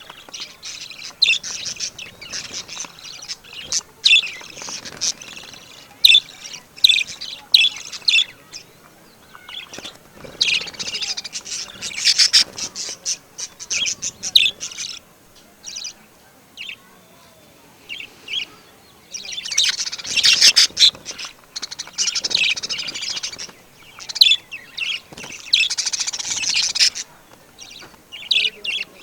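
Birds chirping and calling: clusters of rapid high chirps and short calls, broken by brief pauses.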